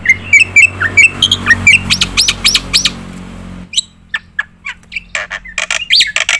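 Black-winged myna (jalak putih) singing non-stop in a rapid stream: quick slurred chirps and arching whistled notes, switching about four seconds in to harsh, rasping strokes.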